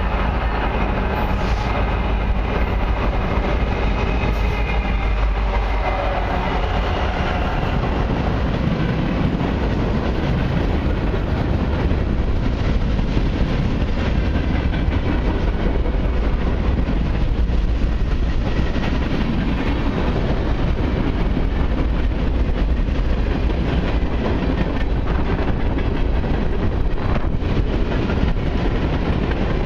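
Long freight train of mixed cars and autoracks rolling past close by: a steady rumble of steel wheels on rail with scattered clicks of wheels over rail joints. A faint whine sinks slightly in pitch and fades out over the first several seconds.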